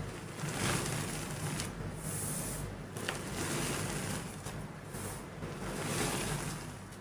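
Soft gym chalk being crumbled and crushed, in several waves of powdery, crumbly crunching, with one small sharp crack about three seconds in.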